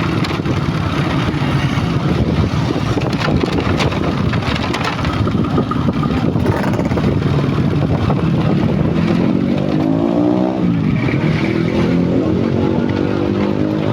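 Heavy truck engine running, revving up about nine seconds in and dropping back a second later, then running steadily at a raised speed.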